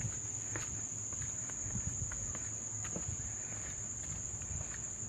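A continuous high-pitched insect chorus, crickets or similar insects trilling at one steady pitch, with light footsteps on a wooden boardwalk.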